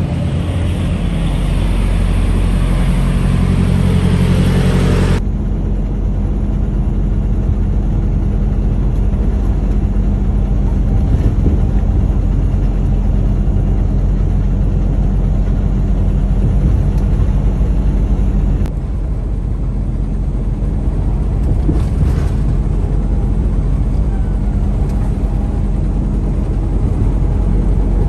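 Semi-truck engine and road noise heard inside the cab, a steady low drone. About five seconds in, the higher hiss drops away abruptly while the engine drone carries on.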